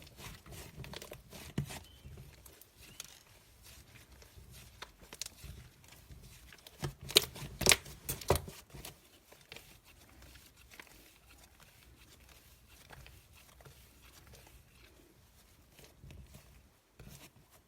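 Close-up crinkling and tearing handling noises with scattered sharp clicks, the loudest few coming together about seven to eight seconds in.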